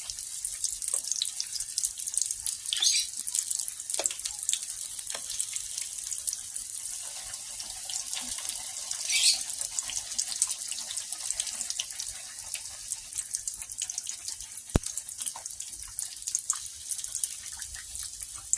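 Battered cornmeal-coated stuffed poblano pepper deep-frying in a pan of oil: a steady high sizzle full of fine crackles, with a few louder pops and one sharp click near the end. The oil is running hot, even with the burner at its lowest.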